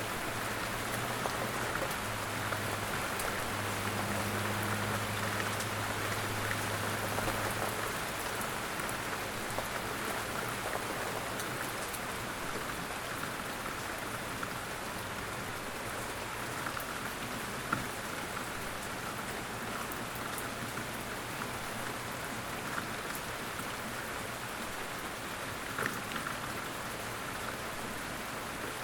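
Steady light rain falling in woods, drops pattering evenly, with a couple of louder single drips, one a little past halfway and one near the end. A faint low hum sits under the rain for the first several seconds.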